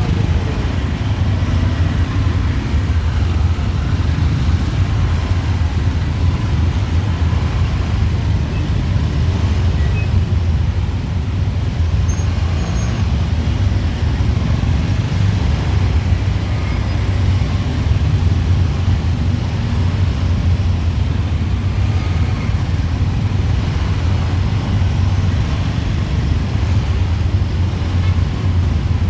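Dense street traffic of motorbikes and cars, a steady low rumble of many engines with no single vehicle standing out.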